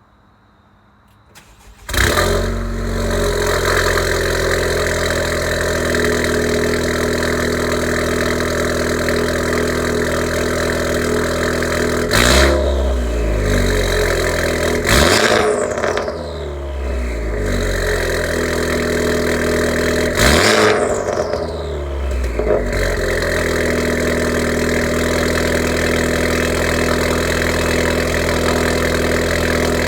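A 2019 Honda Civic Type R FK8's turbocharged 2.0-litre four-cylinder, breathing through a Remus cat-back exhaust with its valve open and a catless downpipe, starts up about two seconds in and settles to a steady idle. It is revved three times, around twelve, fifteen and twenty seconds in, each rev falling away back to idle.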